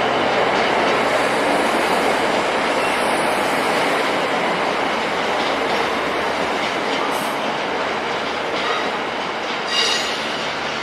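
A train running along the tracks through a station, giving a steady loud rumble and hiss of wheels on rail. High-pitched wheel squeals come in near the end.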